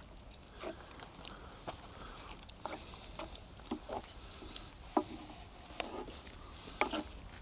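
Thick, creamy risotto being stirred in a pan, with butter and grated cheese just worked in: scattered soft wet squelches and light ticks.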